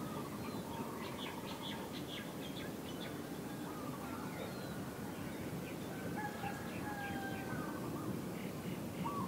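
Several birds chirping and whistling in short, irregular calls, with a few longer held whistles about six to seven seconds in, over a steady low background rumble.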